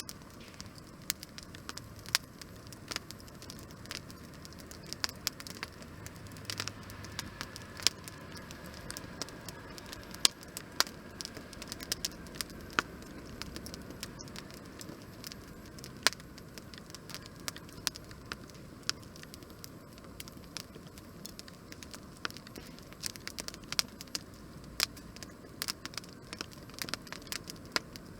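Wood campfire burning, crackling with frequent irregular sharp pops over a soft steady hiss. A faint high whistle runs for several seconds in the middle.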